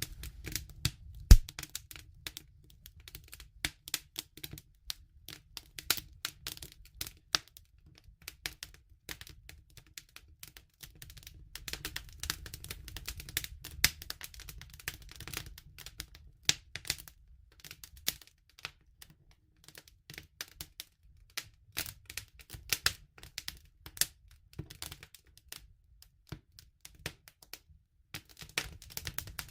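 Wood campfire crackling: dense, irregular pops and snaps over a steady low rumble of the flames, with one loud pop about a second and a half in.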